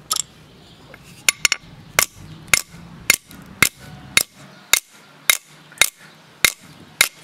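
Small sledgehammer repeatedly striking an AMD 64 CPU, about a dozen sharp metallic blows at roughly two a second, hitting hard to force open the processor's soldered case.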